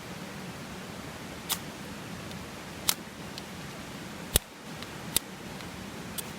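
Ferro-rod fire starter struck about five times at uneven intervals of roughly a second, each one a short, sharp scrape over a steady background hiss.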